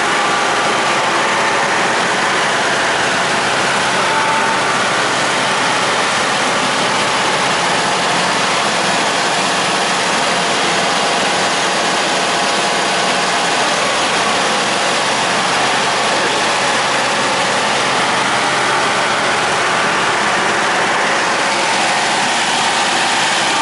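Engine of road-construction machinery running steadily, a constant even drone with no change in speed.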